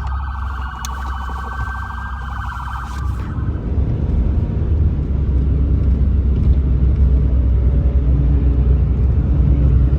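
A rapidly pulsing electronic siren wails for the first three seconds, then stops. A car's engine and road rumble, heard from inside the cabin, takes over and grows louder as the car pulls away.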